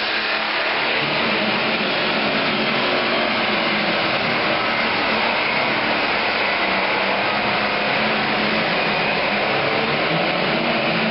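Pro Stock pulling tractor's turbocharged diesel engine running flat out under load during a pull, a loud steady roar.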